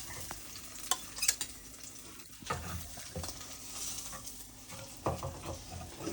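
Fried egg sizzling in an oiled frying pan, with a few scrapes and knocks of a knife working the stuck egg loose from the pan.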